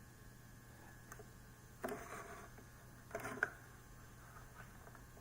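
Two short bursts of clicking and scraping, about a second and a half apart, as multimeter test probes are handled against a coin-cell battery, over a low steady mains hum.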